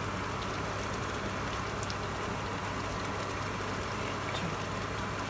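Walnut halwa frying in ghee in a non-stick wok, a steady sizzle with a few faint ticks.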